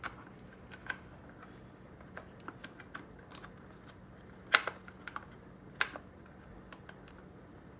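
Scattered light clicks and taps of plastic parts and wiring being handled on an RC truck, with two louder clacks about four and a half and six seconds in.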